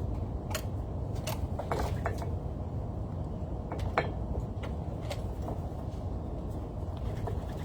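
Scattered light clicks and taps, the sharpest about four seconds in, over a steady low rumble.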